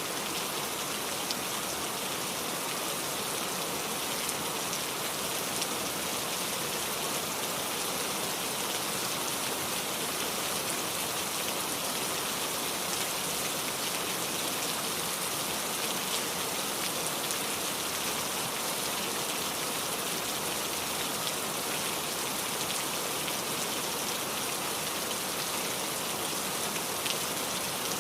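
Steady rain falling, an even hiss with faint drop ticks on a surface.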